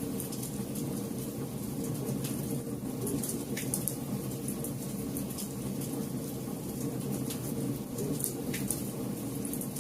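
Wood campfire burning: a steady low rush of flame with scattered sharp crackles and pops from the burning wood.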